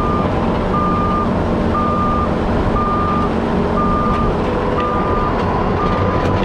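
Backup alarm of a heavy machine reversing: a steady high beep, about half a second on and half a second off, over the machine's diesel engine running steadily.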